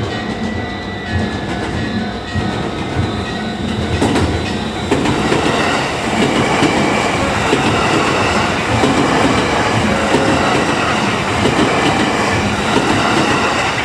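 Electric commuter train on the JR Hanwa Line passing over a level crossing, its wheels clattering over the rail joints; the noise grows louder about five seconds in as the train comes by.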